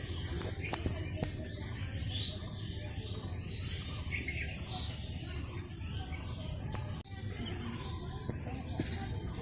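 Outdoor ambience: a steady high insect buzz with scattered bird chirps over a low rumble. The insect buzz gets louder after a brief break about seven seconds in.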